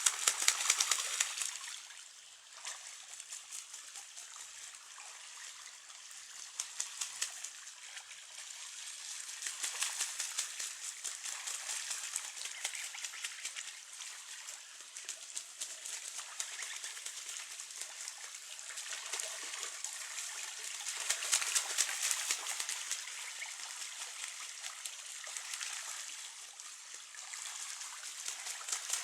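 Running water trickling and splashing, with many fine quick splashes, swelling louder a few times.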